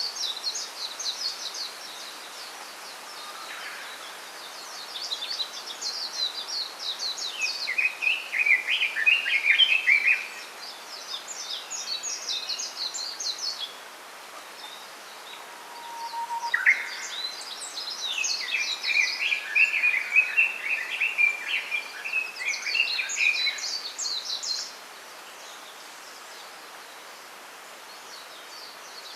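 Small songbirds singing in repeated bursts of rapid twittering song, each phrase lasting a few seconds with short pauses between, some phrases higher and some lower in pitch, over a steady faint hiss.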